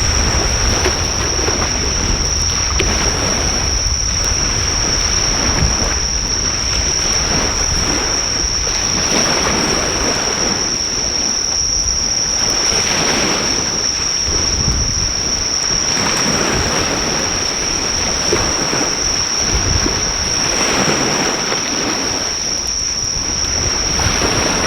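Surf washing onto the shore in swells that rise and fall every few seconds, under a loud, unbroken high-pitched insect trill. Wind rumbles on the microphone.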